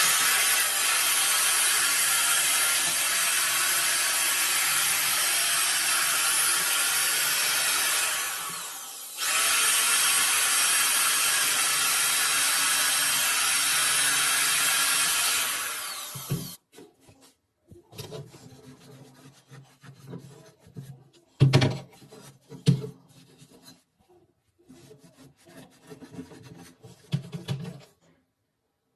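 A power tool running steadily on a rifle part, easing off about eight seconds in and picking up again, then stopping about halfway through. Scattered rubbing, scraping and knocks of hand work follow.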